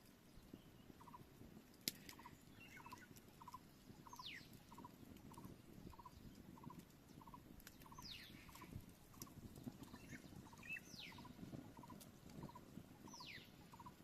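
Faint forest wildlife: a short low note repeated evenly, about one and a half times a second, with four high whistled calls that each fall steeply in pitch.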